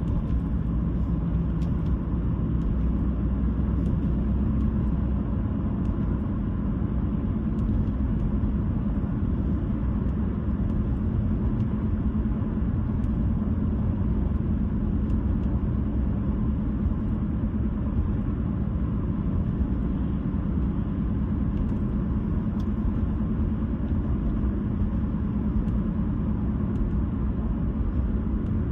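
Steady low road rumble of a car driving at a constant speed: tyre and engine noise with no changes.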